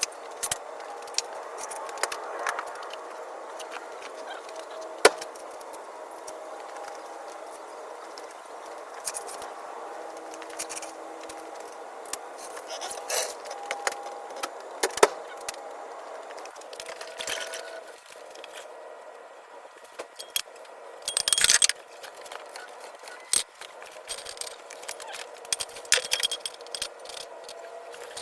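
Hand tools clinking and knocking against metal engine-bay parts: irregular sharp clicks and taps, with a louder rattling scrape about three-quarters of the way through.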